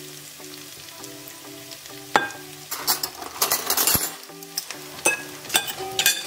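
Fried rice sizzling in a hot pan, with a nylon spatula scraping and clicking as the rice is served onto a ceramic plate. The clicks come repeatedly from about two seconds in.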